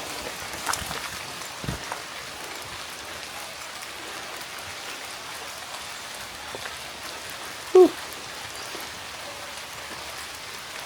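Steady rain falling on rainforest foliage, with a few louder single drops in the first couple of seconds.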